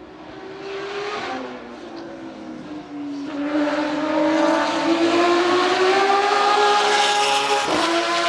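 Porsche 911 GT3 RSR race car's flat-six engine accelerating hard as it approaches, getting louder and climbing in pitch, with an upshift about three seconds in and another near the end.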